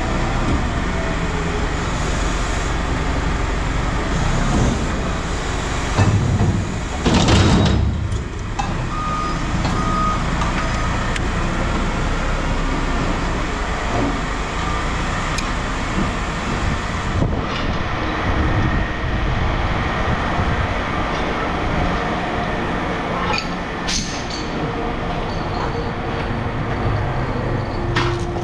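Heavy scrapyard machinery running steadily with a diesel engine note, with a loud metal crash about six to eight seconds in as scrap, an old Evinrude outboard motor, is handled.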